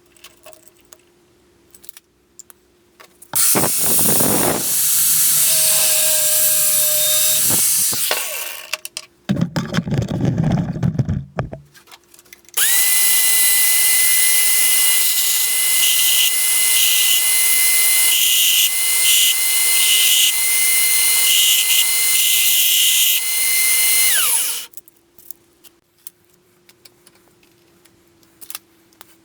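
Power tool working metal in bursts: two shorter runs, then a long steady run of about twelve seconds with a high whine that winds down when it is switched off.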